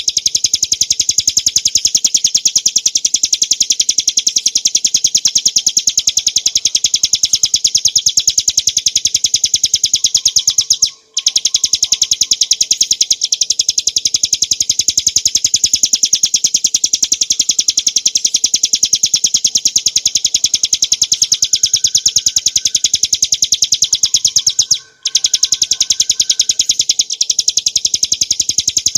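Ciblek gunung, a small prinia, singing a continuous, very rapid run of high chattering notes, with two brief pauses.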